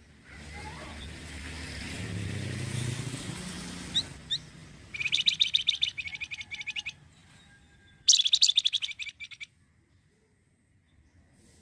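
A flamboyan songbird gives two short chirps, then two bursts of fast rattling trill notes, each a second or two long. These follow a rushing noise over the first few seconds.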